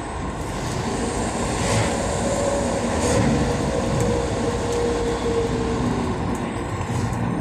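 Engine running through an HKS 'serigala' (wolf) aftermarket exhaust: a steady rumble with a faint held whistle-like tone partway through.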